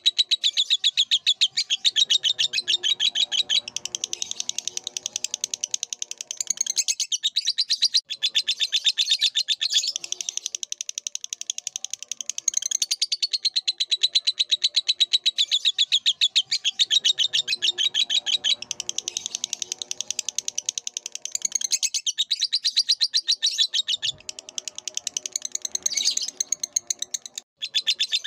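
Lovebird singing a long, rapid, unbroken chattering song. Softer, lower-pitched calls sound underneath twice.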